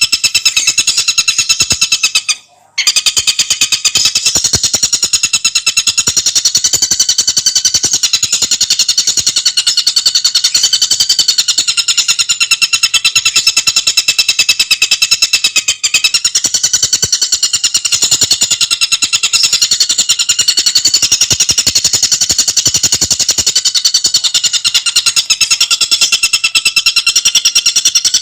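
Tengkek buto bird calling in a fast, unbroken run of rapid repeated high notes, with a brief break about two and a half seconds in.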